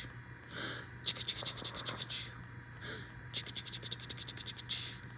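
Two bursts of rapid scratching, about ten strokes a second and each lasting about a second, with short soft breathy sounds in between.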